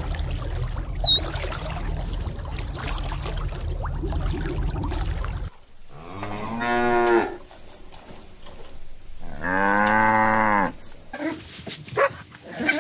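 A cow mooing twice, each moo long and low, the second one longer. Before the moos, high swooping chirps repeat about once a second over a low steady rumble.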